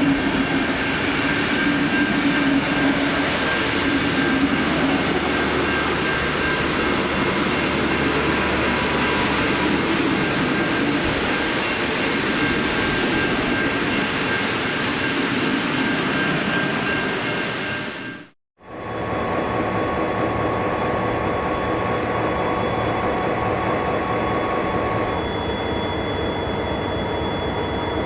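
Diesel-hauled train running past: continuous engine and wheel noise with steady tones. It breaks off for an instant about two-thirds of the way through and picks up again at a similar level.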